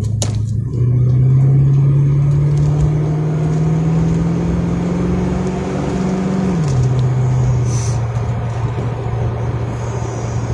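Vehicle engine accelerating, its pitch climbing steadily for about six seconds, then falling suddenly as the transmission shifts up, and running on at the lower pitch.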